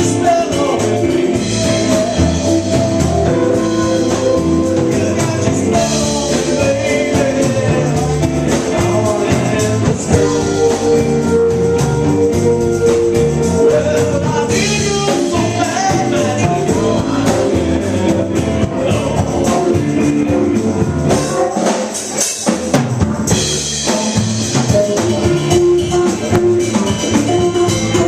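Rock band playing with drums, guitar and singing.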